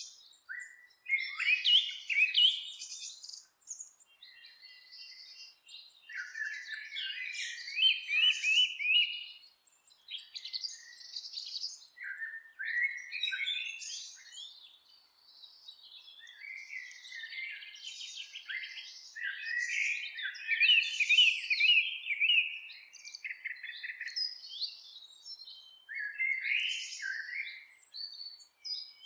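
Songbirds singing, repeated phrases of quick chirps and warbles a few seconds long with short pauses between them.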